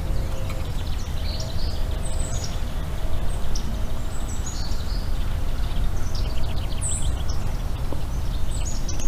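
Songbirds singing and chirping, with short, quick, stepped notes scattered throughout, over a steady low rumble.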